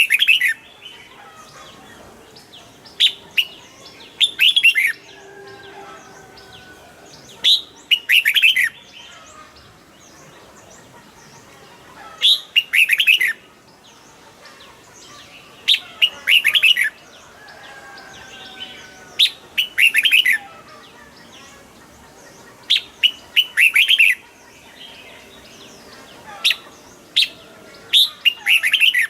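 Red-whiskered bulbul singing: short, quick phrases of several rapid notes, each led by a brief single note, repeated about every three to four seconds.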